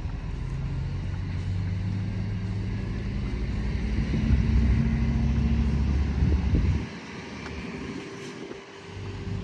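Low, steady engine drone with an even hum, growing louder towards the middle and dropping away abruptly about seven seconds in.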